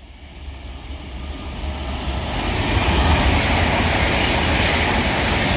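A train passing through the station: a broad rushing roar that swells over the first two or three seconds and then holds steady, with a heavy low rumble.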